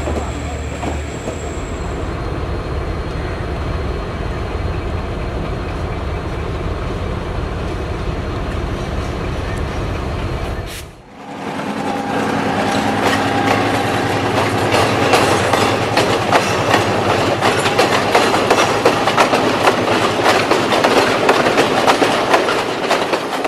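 A diesel-hauled train rolling slowly past, a low engine rumble under the noise of the wheels. About eleven seconds in the sound cuts to a train passing close by, its wheels clattering over the rail joints in a dense run of clicks.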